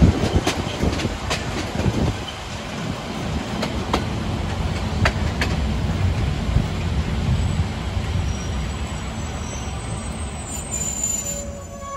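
Harz narrow-gauge train running on the rails: a steady rumble that is loudest in the first two seconds, with a few sharp clicks, and a brief high wheel squeal near the end.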